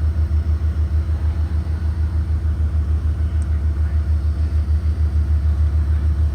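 Blue Bird Vision propane school bus engine running, a steady low rumble with an even pulse several times a second.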